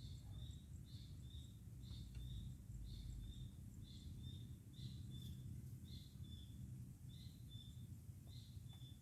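A small bird chirping over and over, short high notes in pairs at about two a second, over a faint low background rumble.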